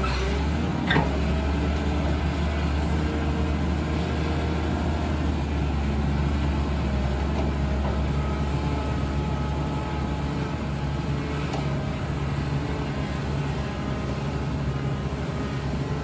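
Excavator's diesel engine running steadily under load as the machine works up a steep slope. A sharp metallic clank comes about a second in, and a fainter one after about eleven seconds.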